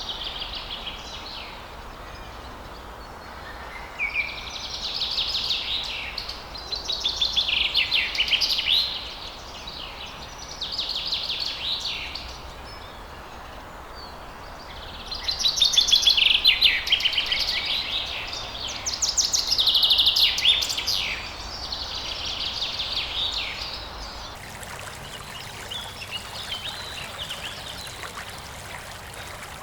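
Songbird singing in repeated phrases a second or two long, with pauses between them, over a steady background hiss. Near the end the song drops to faint calls.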